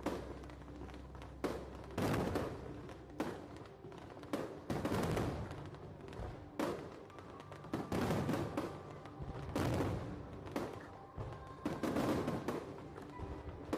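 Aerial fireworks shells bursting in a rapid string, a sharp bang roughly every second, each trailing off in echo.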